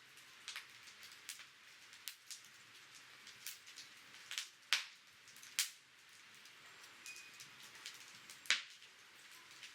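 Wood fire crackling: irregular sharp pops and snaps over a steady hiss, with a few louder pops around the middle and near the end.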